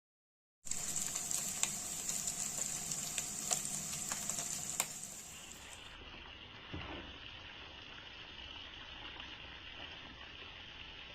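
Food frying in hot oil in a pan: a sizzle with sharp crackles and pops for the first half. After a cut it becomes a quieter, steadier sizzle, with one soft knock shortly after.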